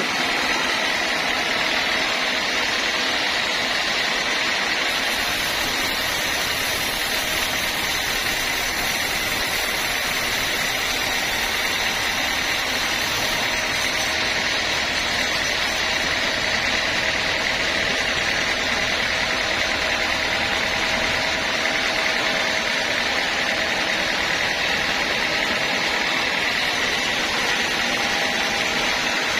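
Homemade band sawmill running steadily: a constant high whine over a rushing mechanical noise, unchanging throughout.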